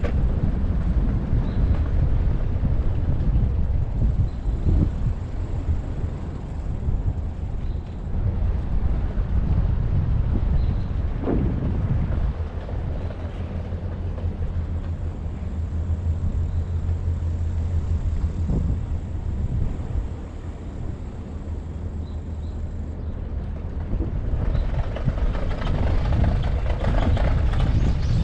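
Low, gusty rumble of wind and road noise on a bicycle-mounted action camera while riding, with a louder, brighter rush over the last few seconds.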